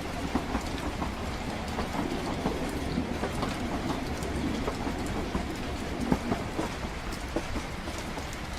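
Train running steadily on its rails: a low, even rumble with scattered small clicks and patter over it.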